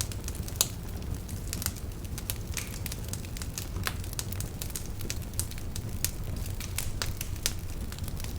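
Wood fire burning with irregular sharp crackles and pops over a steady low rumble of flames.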